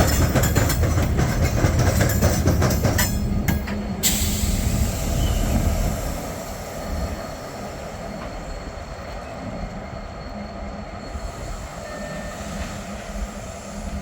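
Freight train rolling past: a heavy rumble of wheels on rail with a burst of clacks about three to four seconds in. About six seconds in it drops to a quieter, steady rumble.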